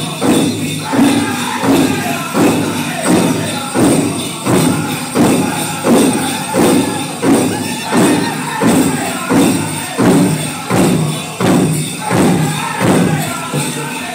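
Powwow drum group singing a song over a steady big-drum beat, about one and a half beats a second, with jingling bells.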